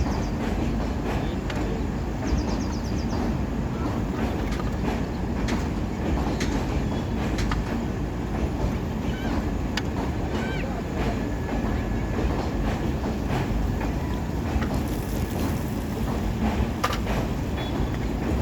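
Train running: a steady low rumble with scattered, irregular clicks and knocks.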